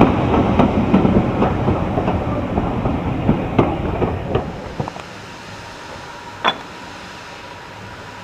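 Passenger coaches rolling past over jointed track and points: a steady rumble with irregular wheel clicks, fading as the last coach goes by. About five seconds in it drops abruptly to a quieter background, with one sharp click a moment later.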